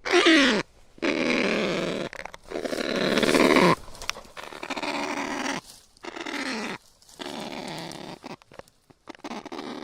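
Kakapo calling: a run of about seven rough, hoarse calls, each up to about a second and a half long with short gaps between them, several dropping in pitch as they end.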